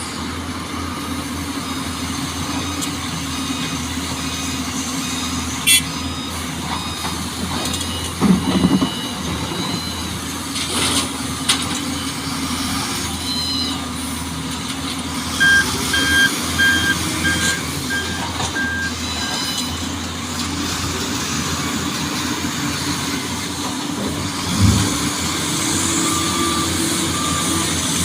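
Heavy truck engines running steadily, with a reversing alarm beeping in short, evenly spaced pulses several times, most clearly around the middle and again near the end. A few sharp knocks stand out above the engine noise.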